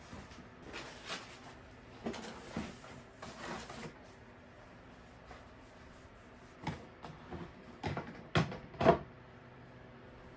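Irregular knocks and clatters of objects being handled, with short rustles between them; the two loudest knocks come about half a second apart a little past the middle.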